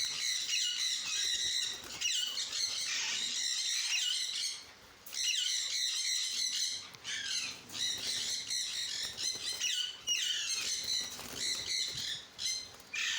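Many aviary parrots squawking and chirping together, overlapping calls, with short lulls about five seconds in and near the end.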